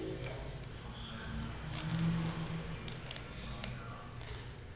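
A few scattered small clicks over a faint low background hum.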